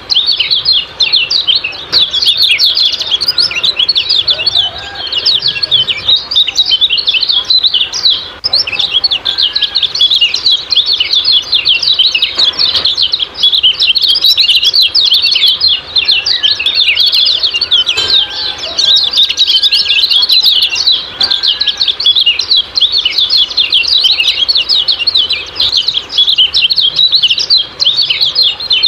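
Kecial kuning, a small white-eye, giving its rapid 'ciak-ciak' chirping call in a dense, unbroken stream of high, quick chirps. A few fainter, lower whistled notes sound now and then beneath it.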